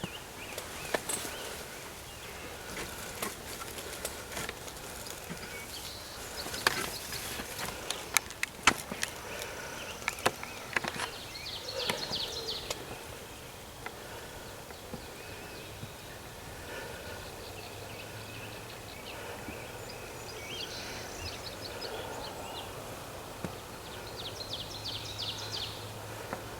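Quiet outdoor ambience: small birds sing quick high trills a few times, and scattered clicks and rustles of movement are heard, mostly in the first half.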